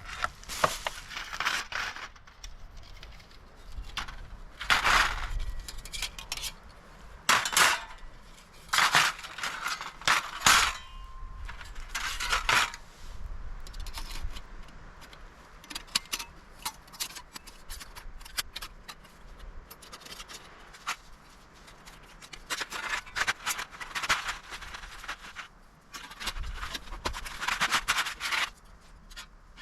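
Camping gear being handled: a run of short scrapes and rustles with light metallic clinks, coming in irregular bursts.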